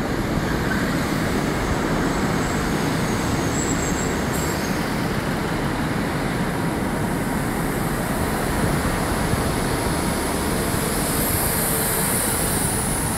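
Passenger train passing through a station, a steady running noise with faint high wheel squeal a few seconds in.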